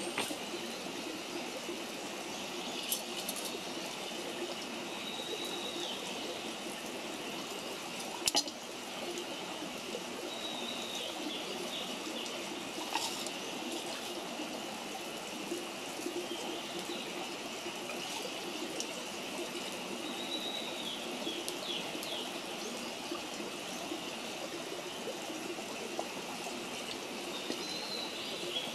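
Wood campfire burning with a steady hiss and a few sharp pops, about three in all. Short high bird chirps come every few seconds.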